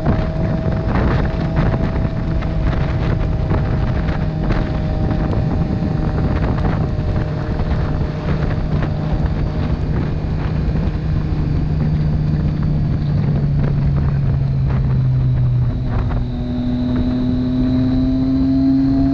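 Motorcycle engine running steadily on the road, with wind rushing over the microphone. The engine note sags slightly, then shifts about three-quarters of the way through.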